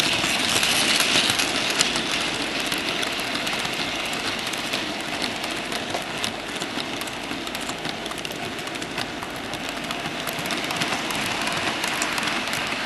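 00 gauge model trains running around the layout: a steady whirring rumble with many small clicks of wheels over the rail joints and pointwork.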